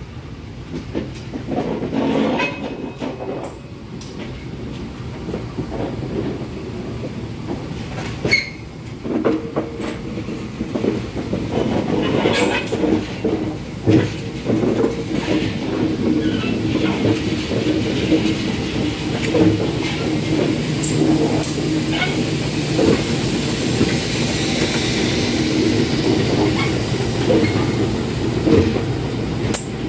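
A train passing close by, its wheels clacking over the rail joints above a steady low drone. It grows louder about eight seconds in and stays loud.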